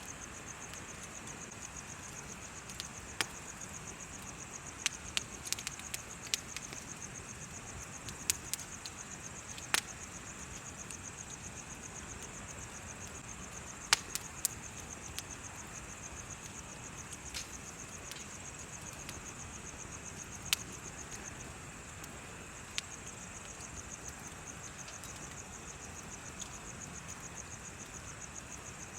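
Wood bonfire crackling with irregular sharp pops, over a steady, rapid high chirping of insects.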